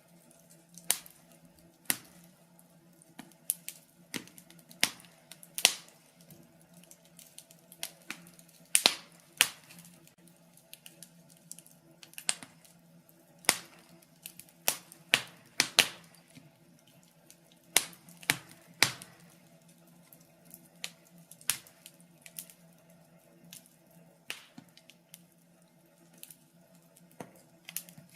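Wood fire crackling in a fireplace: irregular sharp pops and snaps, roughly one every second, some much louder than others, over a faint steady low hum.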